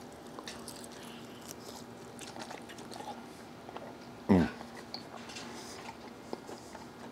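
A person chewing a crispy-skinned smoked chicken wing: faint crunching and small mouth clicks. About four seconds in comes one short hummed sound from the eater, falling in pitch, which is the loudest sound.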